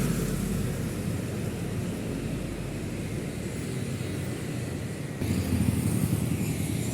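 Heavy road vehicles passing close by, with steady diesel engine and tyre noise. A louder pass starts abruptly about five seconds in.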